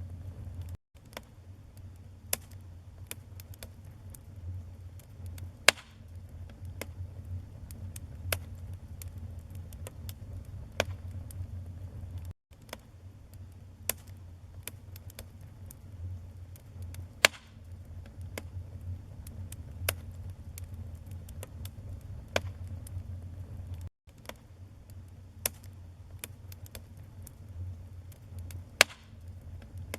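Wood fire burning in a fireplace: a steady low rumble of flames with irregular crackling and occasional sharp, louder pops. The sound briefly cuts out three times.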